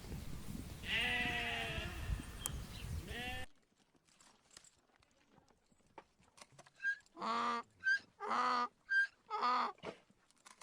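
Goats bleating: one long, quavering bleat over background noise. After a cut, three bleats in quick succession near the end.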